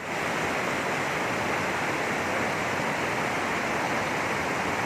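Waterfall rushing: a steady, unbroken noise of falling water, fullest in the lower and middle range.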